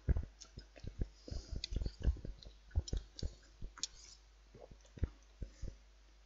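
Close eating sounds: chewing with irregular wet mouth clicks, picked up by a headset microphone near the mouth, and a few light clinks of a knife and fork on a plate.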